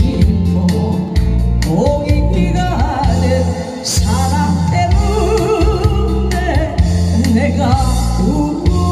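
A singer performing a Korean song live over accompaniment with a steady bass and drum beat, the vocal line wavering with vibrato.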